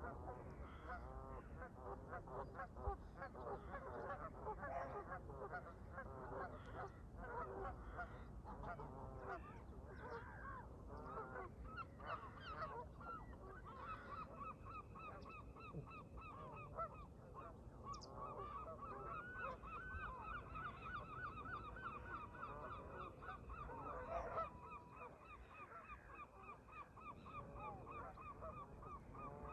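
A flock of Canada geese honking, many overlapping calls at first. From about halfway, a fast, even run of calls carries on, over a low rumble of wind and water.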